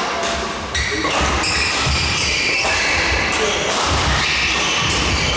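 Badminton doubles play: a string of sharp racket hits on a shuttlecock and thuds of shoes on the court, with voices of players and onlookers.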